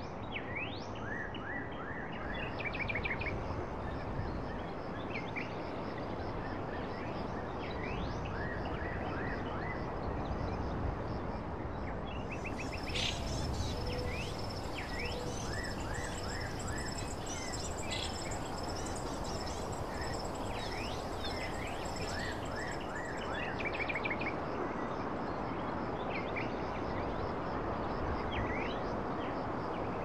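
Birds chirping and calling: many short quick chirps, some sweeping up or down in pitch, over a steady background hiss. From about twelve seconds in until about twenty-three seconds, a high continuous trill joins them.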